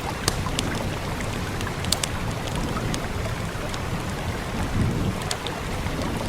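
Fire crackling with scattered sharp pops over a steady hiss of rain and a low rumble.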